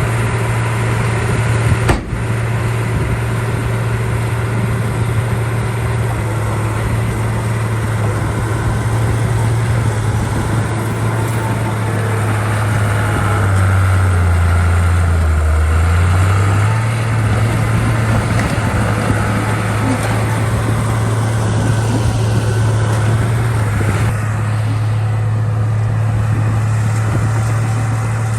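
Heavy diesel engine of a dump truck or bulldozer running steadily under work, its pitch dropping for a few seconds around the middle before picking back up. A single sharp knock about two seconds in.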